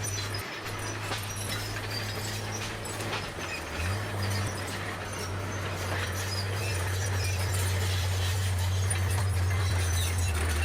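Crawler bulldozer's diesel engine running steadily under load, its pitch stepping up slightly about four seconds in, with scattered light metal clanks and rattles over the low drone.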